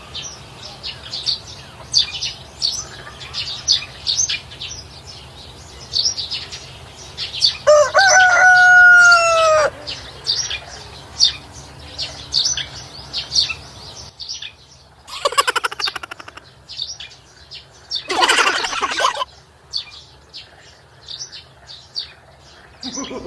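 Small birds chirping over and over, with a rooster crowing once for about two seconds. Two short bursts of noise follow later, one about fifteen seconds in and one about eighteen seconds in.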